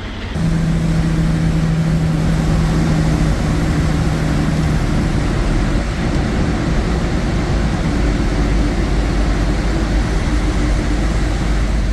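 Semi truck driving: a steady diesel engine drone over road rumble. A clear engine tone starts at once and fades out after about five seconds, while the low rumble runs on.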